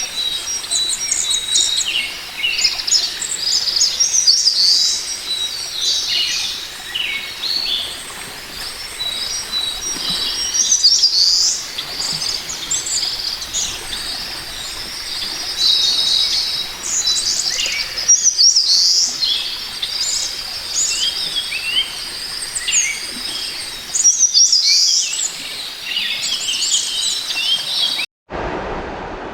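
Many small birds chirping and singing at once, a dense chorus of short, quick high notes and trills. Near the end it cuts off suddenly and gives way to a steady rushing noise.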